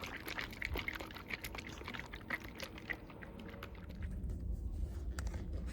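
Bottle of leather dye being shaken hard, the liquid sloshing inside with quick irregular clicks and rattles that thin out about four seconds in.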